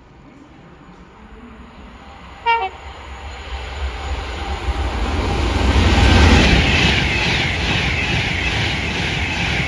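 A train gives a short horn blast, then approaches and passes at speed, its rumble building to a peak a few seconds later and carrying on with a regular wheel clatter over the rail joints.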